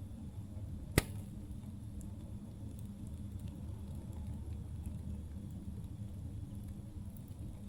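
Campfire burning with a steady low rumble and scattered faint crackles, and one loud, sharp pop from the burning wood about a second in.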